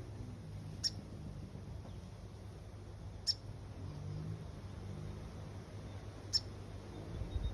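Red-capped parrot giving three short, sharp, high chirps, about two and a half seconds apart, over a low steady rumble.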